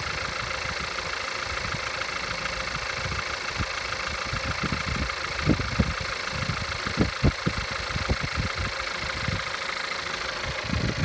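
Volkswagen 1.2 TSI EA211 four-cylinder turbo petrol engine idling with a steady, even knock, heard at idle after a cold start. A few dull low thumps come in the middle.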